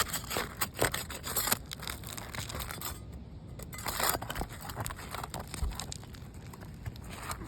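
Small crowbar scraping and prying under an asphalt roof shingle, the brittle shingle crackling and tearing as it is lifted. The sounds come in irregular bursts, busiest in the first second and a half and again about four seconds in.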